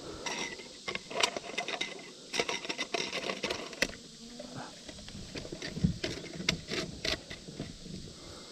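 Handling noise of fishing tackle being sorted in a kayak: irregular clicks, taps and rustles, with a few dull knocks about six to seven seconds in.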